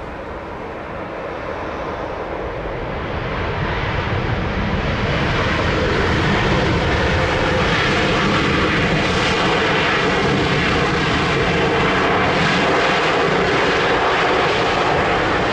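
Boeing 787-10 Dreamliner's jet engines on landing approach, a loud wide hiss and rumble. The noise builds over the first five seconds or so as the airliner closes in, then holds loud and steady as it passes close by.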